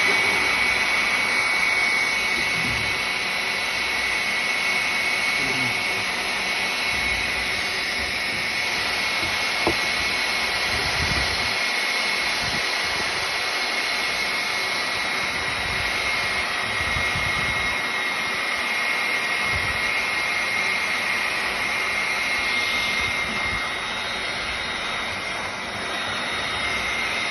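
Hot-air heat gun running steadily, a rush of blown air with a high, constant motor whine, with a few low handling bumps.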